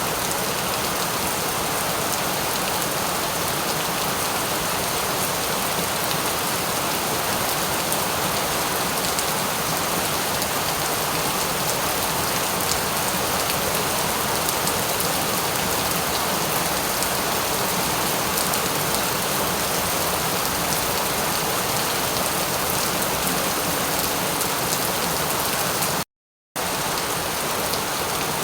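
Steady rain falling on a surface: a dense, even hiss that cuts out completely for about half a second near the end, then resumes.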